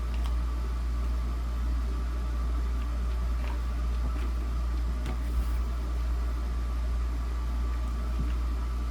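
Steady low hum with a faint steady tone above it, and a few faint clicks and taps from small metal and plastic fan parts being handled while the guard screws are lined up.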